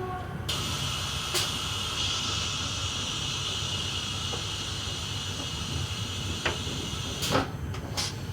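Train running with a steady low rumble. A loud hiss of air starts about half a second in and stops about seven seconds in, with a few sharp knocks along the way.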